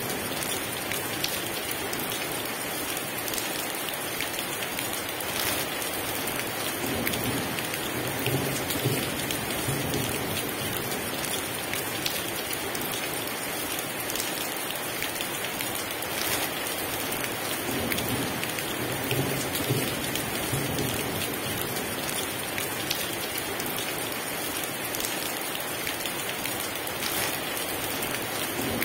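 Heavy rain pouring steadily, with drops pattering on a surface and low rumbles of distant thunder rising a few times.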